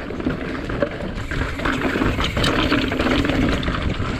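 Santa Cruz Tallboy mountain bike being ridden down a rough dirt trail: steady tyre and trail noise with rapid small clicks and rattles from the bike.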